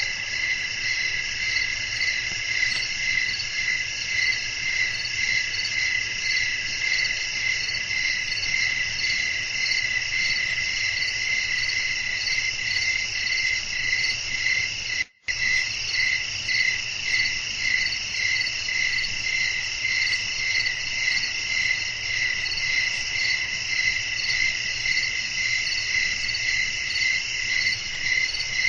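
A dense chorus of crickets chirping steadily at night, in an even pulsing rhythm of a few chirps a second. The whole sound drops out for a split second about halfway through.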